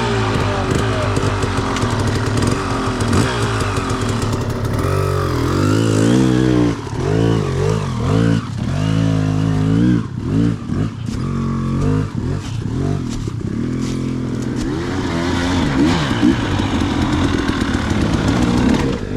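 Dirt bike engine running close by, revved up and down again and again, its pitch rising and falling most busily through the middle of the stretch.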